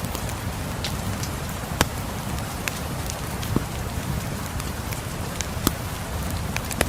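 Steady rain with a wood fire crackling over it: a low, even rain hiss and rumble, broken by a sharp pop every second or so. The loudest pops come about two seconds in and twice near the end.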